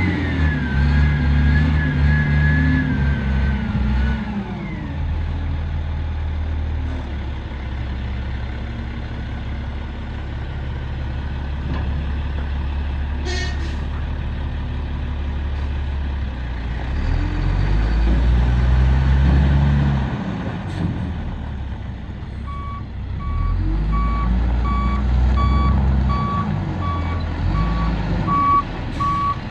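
2007 Sterling L7500 dump truck's diesel engine running and revving up and down several times, with one brief sharp noise about midway. In the last quarter its reversing alarm beeps steadily, a little under two beeps a second, over the engine.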